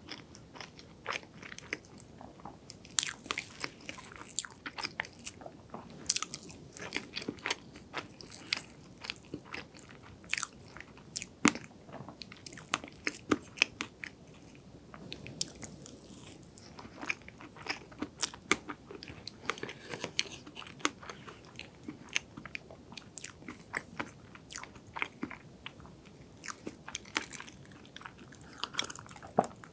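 Close-miked eating sounds of soft chocolate and strawberry layer cake: wet chewing, lip smacks and many short sticky clicks, a few every second. Near the end come sips from a glass of iced drink.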